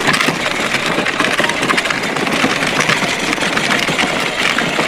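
Electric motor and plastic gearbox of a 12-volt ride-on backhoe toy running steadily, a busy whirring with fine rapid ticking.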